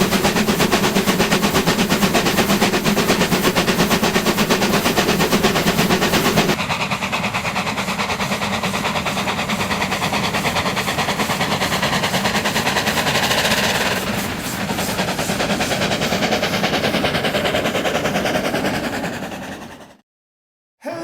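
Narrow-gauge steam locomotives of a doubleheader working hard, their exhaust chuffing in a rapid, dense beat. The sound changes about six and a half seconds in, then fades out to silence near the end.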